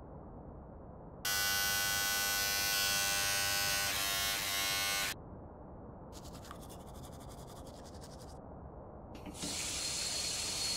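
Electric toothbrush buzzing steadily for about four seconds, then a fainter rhythmic scrubbing of brushing, then a steady hiss like a bathroom tap running, starting near the end.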